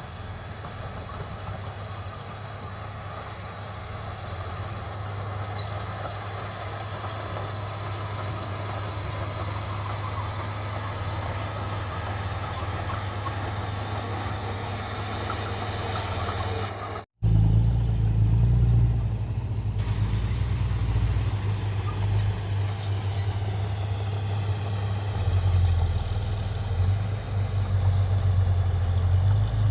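Heavy diesel earthmoving machinery running with a steady engine drone and a low hum. About 17 seconds in the sound cuts out for a moment, and after that a louder engine runs with more low rumble.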